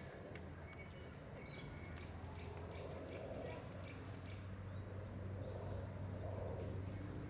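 A bird calling a quick run of about six short, high, evenly repeated notes, roughly three a second, over a steady low hum.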